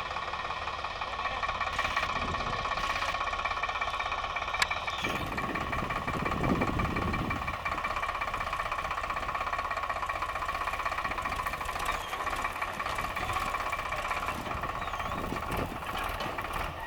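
Tractor-driven wheat thresher running steadily, its whirring drum and the tractor engine together making a continuous mechanical drone with a few steady whining tones. A sharp click sounds a few seconds in.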